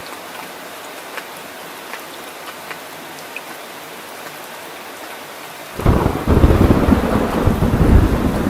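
Steady rain falling, with a few scattered drop ticks. Nearly six seconds in, a loud low rumble of thunder starts suddenly and keeps rolling.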